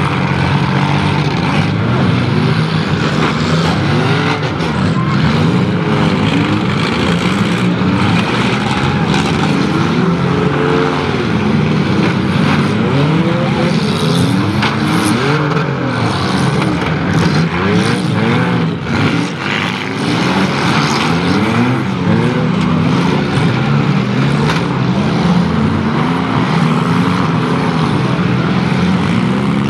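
Several demolition-derby car engines revving hard at once, their pitch repeatedly rising and falling as the cars accelerate, ram and push against each other, with a few sharp knocks of impacts.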